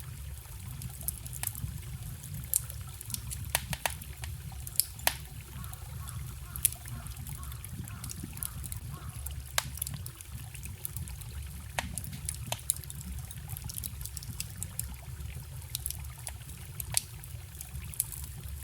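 Wood campfire crackling, with sharp pops at irregular intervals, over the steady low rush of a forest stream.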